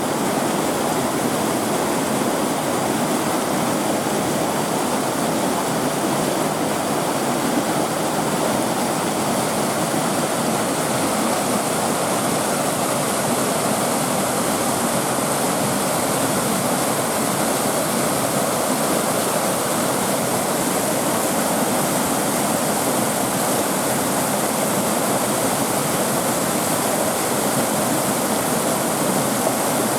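Steady rush of water pouring and splashing over rocks in a creek, an unbroken even roar.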